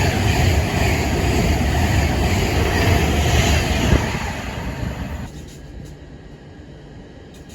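A train passing through a station with a loud, steady rumble that fades away about four to five seconds in, leaving quieter background noise.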